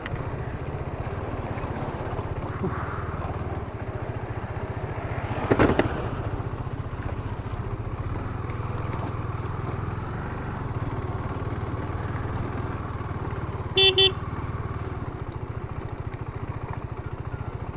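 Motorcycle engine running steadily on the move, with a brief loud rush of noise about five and a half seconds in and a short double horn toot near the two-thirds mark.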